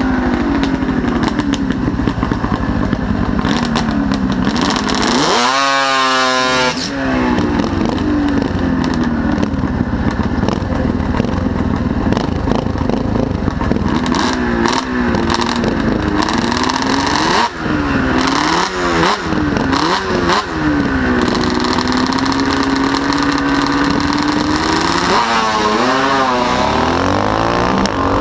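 Motorcycle engine running and being revved. Its pitch climbs steeply about five seconds in, then comes a run of short throttle blips midway, and a further rise near the end.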